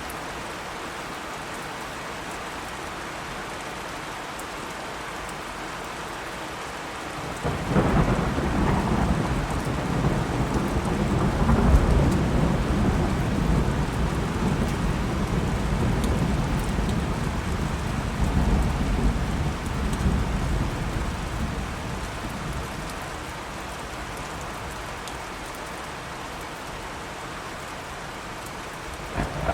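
Steady rain falling, with a long roll of thunder that breaks suddenly about a quarter of the way in, swells, and rumbles away over roughly fifteen seconds, leaving the rain.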